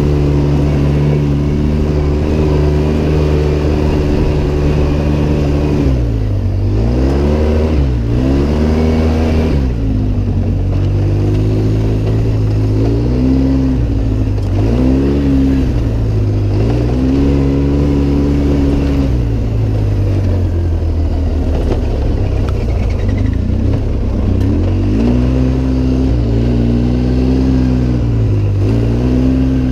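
Off-road vehicle's engine running hard, holding a steady pitch for the first few seconds, then dropping and climbing again several times as the throttle is eased and reopened.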